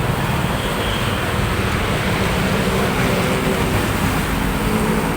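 Steady road traffic noise with a low engine hum from a vehicle running close by.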